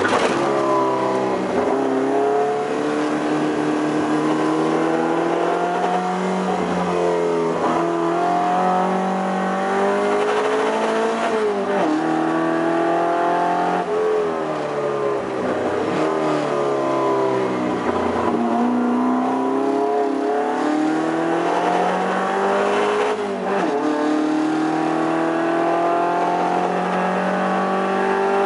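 The twin-cam four-cylinder 18R-G engine of a TA22 Toyota Celica race car, driven hard. Its note climbs steadily in pitch, then drops sharply at each gear change or lift, over and over.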